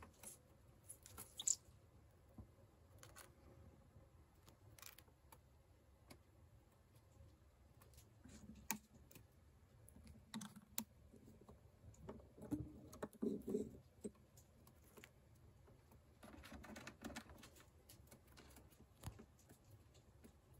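Faint, scattered clicks and light taps, with a cluster of soft knocks a little past the middle.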